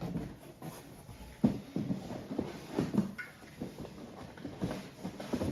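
Irregular knocks and rustling as beer cans and bottles are handled and pulled out of a cardboard shipping box, with the loudest knock about a second and a half in.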